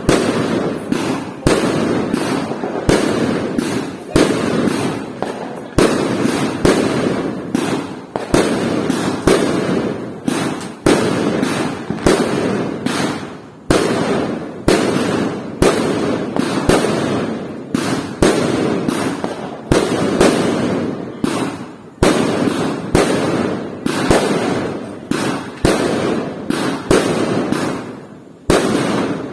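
Fireworks going off in a dense barrage: sharp bangs, one to three a second, each followed by a rolling, echoing rumble that runs into the next.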